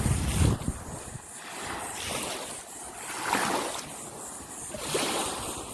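Small Gulf waves washing onto the beach in repeated swells, each rising and falling over a second or so, with a gust of wind buffeting the microphone at the start.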